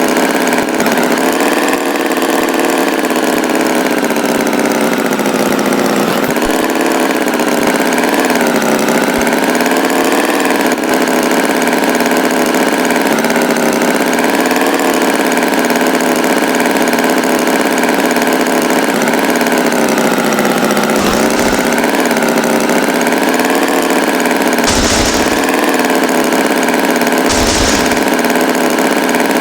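Tractor engine running steadily, its pitch wavering up and down a little, with three short low thuds in the last third.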